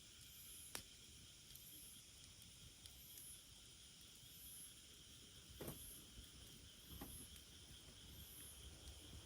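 Faint outdoor insect chorus: a steady high buzz with very high chirps repeating a little more than once a second. A few sharp pops cut through it, one under a second in and two more near the six- and seven-second marks.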